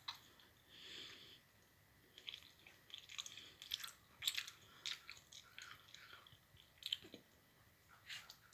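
A person chewing soft cheese, with faint, irregular mouth clicks and smacks.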